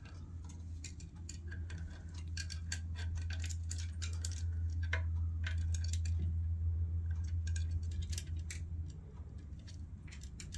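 Congo African grey parrot's claws tapping and clicking irregularly on a hard surface as she walks, over a low steady hum that grows louder through the middle and fades near the end.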